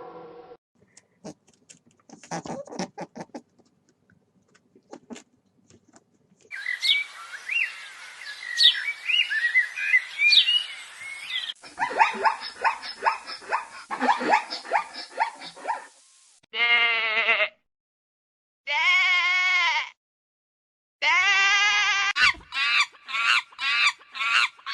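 A run of animal calls: a few faint clicks, then several seconds of chirping with quick glides in pitch, a stretch of rapid repeated calls, and then three long separate bleats followed by a quick series of shorter bleats near the end.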